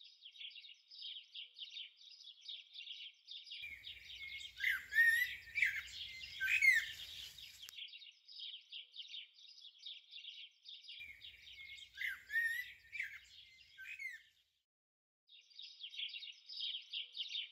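Birdsong: a steady twittering of small birds, with louder calls sliding up and down in two spells through the middle. It breaks off briefly near the end.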